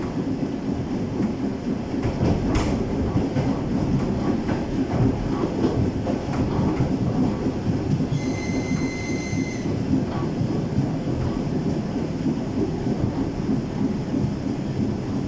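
ED9M electric train running along the track, heard from aboard: a steady rumble of wheels on rails with scattered rail-joint clicks. A brief steady high tone sounds a little past halfway, lasting about a second and a half.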